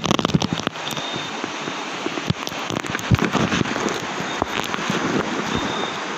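Steady rain, with many sharp, irregular taps and crackles of drops striking close to the microphone.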